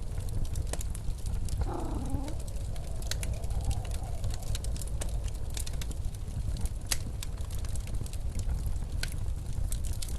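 Wood fire crackling with irregular sharp pops over the steady low rush of blizzard wind. A short wavering tone rises and falls about two seconds in.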